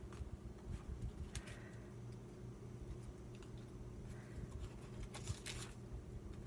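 Paper being handled during journal crafting, with a few short rustles about a second in and again near the end, over a steady low hum.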